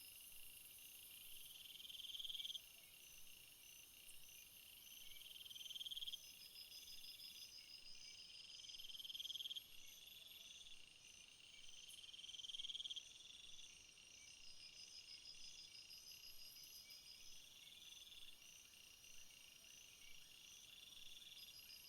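Faint chorus of field insects stridulating: a buzzy trill that swells for a second or so and stops short, repeating about every three and a half seconds, over steadier, higher rapid chirping trills.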